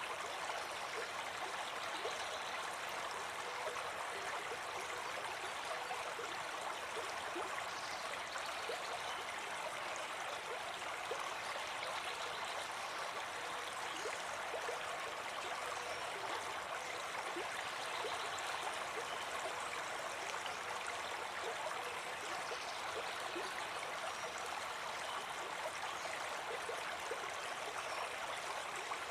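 Stream water running steadily, a continuous babbling and trickling.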